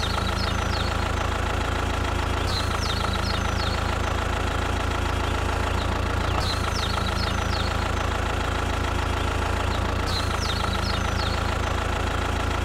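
Steady, even engine hum of the mini bulldozer running at a constant pace, with short high bird chirps every few seconds.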